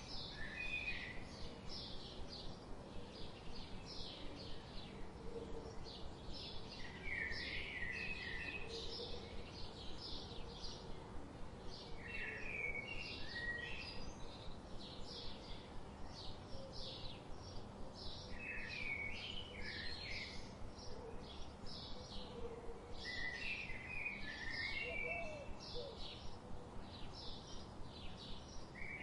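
Forest ambience with a bird singing a short warbled phrase about every five to six seconds, over a steady rapid high chirping of about three a second.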